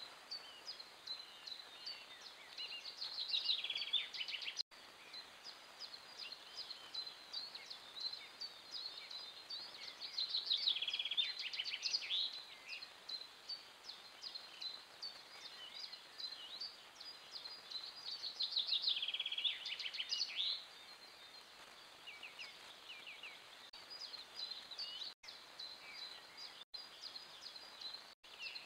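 Songbirds singing: a steady scatter of high chirps, with three louder song phrases of about two seconds each that come a few seconds in, about ten seconds in, and near twenty seconds.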